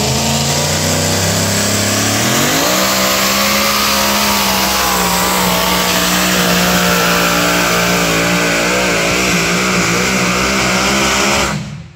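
Alcohol-fuelled two-wheel-drive pulling truck engine running flat out on a pull. The pitch climbs about two seconds in and then holds high and wavering. The engine shuts off shortly before the end.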